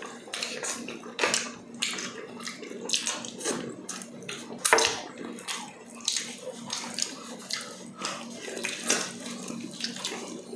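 Chewing and lip-smacking of people eating food with their hands, a run of irregular short wet smacks and clicks, one sharper smack a little before the middle.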